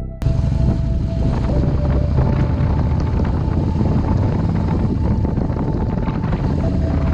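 Motorcycle riding at speed: a steady low engine rumble under heavy wind buffeting on the microphone, starting abruptly about a quarter second in.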